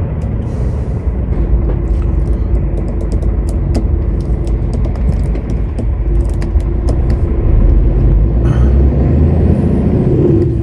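Lorry engine running steadily, heard from inside the cab while driving, with light irregular clicking rattles and a short hiss about eight and a half seconds in.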